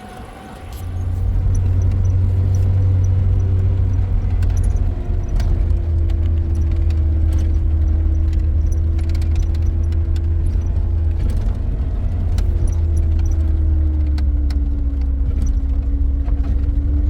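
Motor vehicle running steadily with a heavy low rumble and scattered rattles, starting about a second in.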